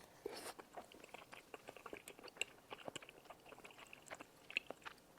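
A person chewing spicy rice cakes (Yeopgi tteokbokki) close to the microphone: faint, wet mouth clicks and smacks at an irregular pace.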